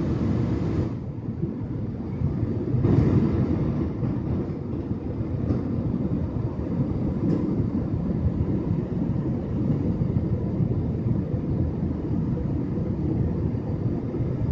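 Airbus A320 cabin noise: a steady low rumble of engines and airflow heard from inside the airliner.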